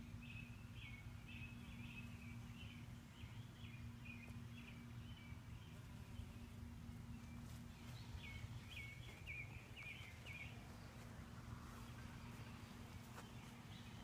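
A songbird singing faintly outdoors in two runs of quick, chirpy notes, the second starting about halfway through, over a steady low hum.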